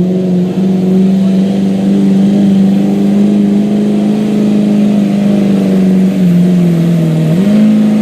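Diesel pickup truck's engine held at high revs under full load, pulling the sled at a tractor pull. The pitch is steady; about six seconds in it sags, then climbs back near the end.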